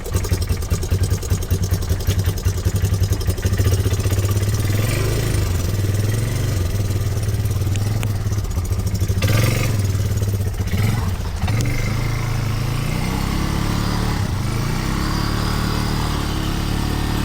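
ATV engine revving in uneven bursts while the quad is stuck in deep mud and trying to reverse out, then running at a steadier pitch for the last few seconds.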